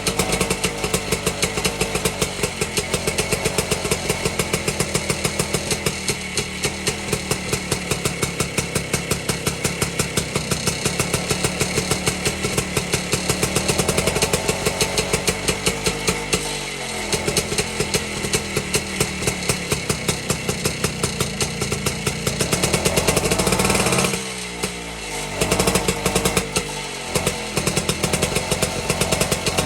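A BSA D1 Bantam two-stroke single-cylinder engine running on a test stand after years unused, its revs rising and falling. Near the end it revs up, then drops sharply and runs unevenly, missing and stumbling.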